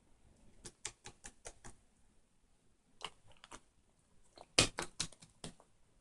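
Sharp taps or clicks in three quick runs, the loudest run near the end.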